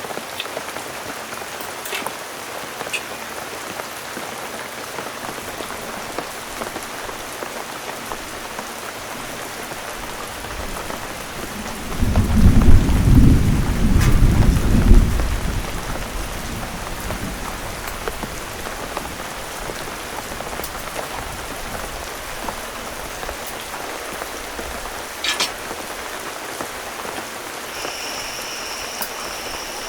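Heavy rain falling steadily, with a loud low rumble of thunder rolling through for about three seconds around the middle.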